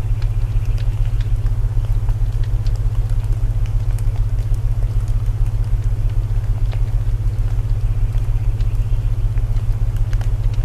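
Layered sleep soundscape: loud low binaural tones droning with a fast pulse, over an even hiss of rain and scattered small crackles of burning wood.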